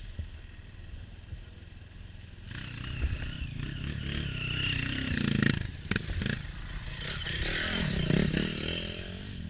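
Off-road motorcycle engine, a low rumble at first that grows louder about two and a half seconds in, then revving up and down twice.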